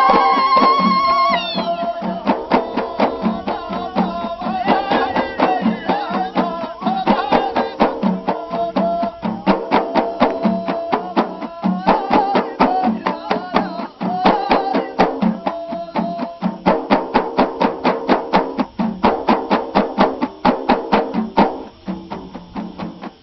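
Ahidous music: voices singing together over frame drums beaten in a steady rhythm. A long held high note ends about a second in, and the drumming grows denser and louder about two-thirds of the way through.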